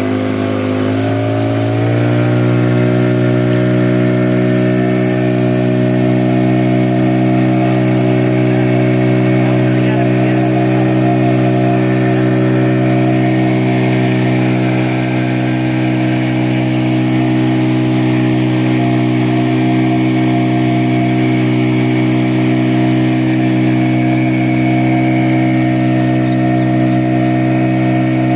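An engine running steadily at one pitch, which steps up slightly about two seconds in and then holds.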